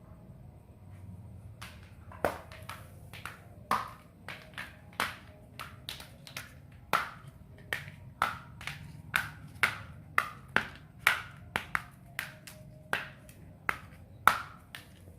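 A quick, irregular series of sharp taps or clicks, each with a short ring, starting about two seconds in and running at roughly two a second.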